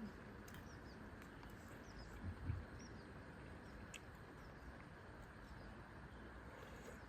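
Faint outdoor ambience: a steady low hiss with small bird chirps scattered through it, and a single dull low thump about two and a half seconds in.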